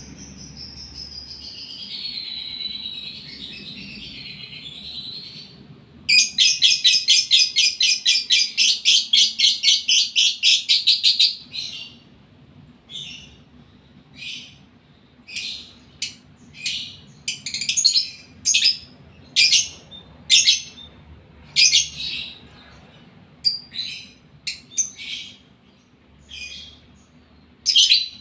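Lovebird in breeding condition (gara, birahi) calling. It warbles and chatters for the first few seconds, then gives a fast run of sharp, repeated chirps, about four or five a second, for some five seconds, and after that single loud chirps about a second apart.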